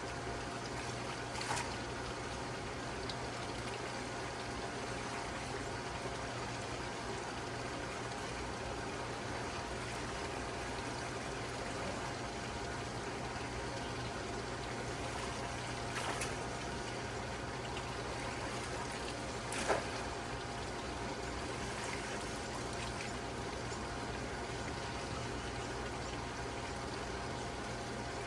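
Steady running, trickling water over a low steady hum, with three brief clicks.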